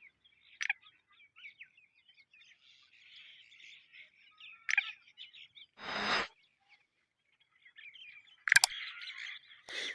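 Birds chirping steadily, with four loud, sharp call notes spread through it and a short rustling noise about six seconds in.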